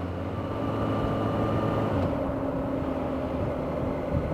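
Motorcycle engine running steadily while riding, heard with road and wind noise; its pitch shifts about two seconds in.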